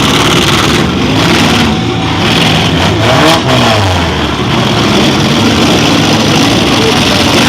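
Several demolition derby cars' engines running loud at once, revving up and down over one another.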